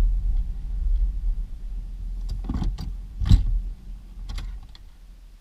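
Low rumble of a pickup truck heard from its dashboard, fading away as the truck slows. A few clicks and knocks come in the middle, the loudest about three seconds in.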